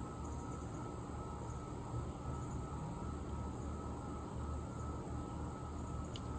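Outdoor ambience: a steady low rumble like distant traffic under a continuous high, even insect-like hum, with one brief high chip near the end.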